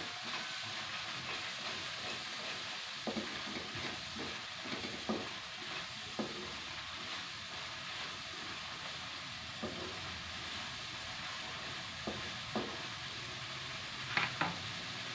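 Blended chilli-and-shallot spice paste frying in oil in a non-stick wok, with a steady sizzle. A spatula stirs it, scraping and now and then knocking against the pan, with a few quick knocks near the end.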